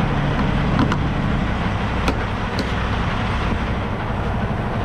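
Semi truck's diesel engine idling steadily, with a few short light clicks over it.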